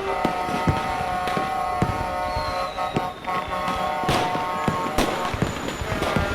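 Many truck air horns blaring at once in overlapping held tones, a horn concert. Sharp cracks or bangs cut through about once a second.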